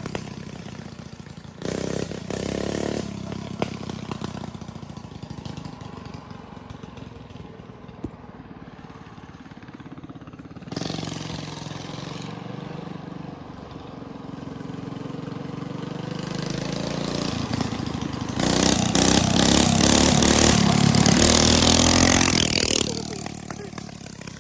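Small single-cylinder minibike engine running, its pitch rising and falling with the throttle. It gets much louder for several seconds near the end as the bike comes close, then drops away.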